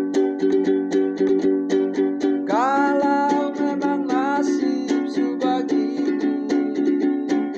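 Ukulele strummed in a steady rhythm, with a voice singing a long, wavering line over it from about two and a half seconds in.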